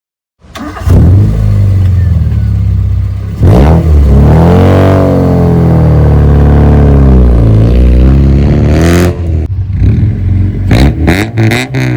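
Suzuki Baleno 1.6's four-cylinder petrol engine through an aftermarket stage 1 exhaust, revved up and down again and again. Near the end the sound breaks up into short, rapid pulses.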